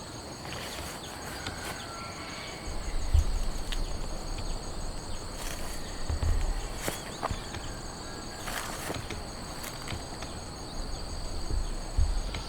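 Insects trilling steadily in high continuous tones, with a few dull low thumps about three, six and twelve seconds in.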